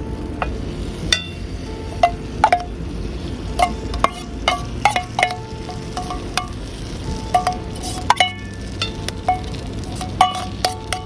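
A utensil stirring and clinking against metal cookware, about twenty irregular strikes, each with a short ringing tone, over a steady low background.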